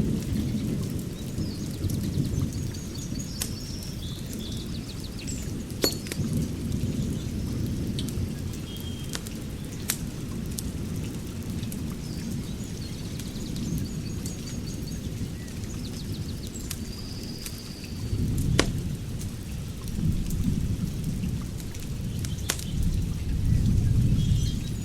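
Wood fire crackling in a fire pit, with scattered sharp pops over a low rumbling roar that swells again in the last few seconds. Birds chirp now and then in the background.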